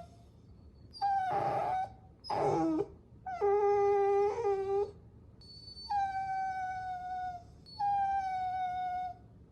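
Puppy whining: five separate high, drawn-out whines with short pauses between them, the longest about a second and a half, several falling slightly in pitch at the end.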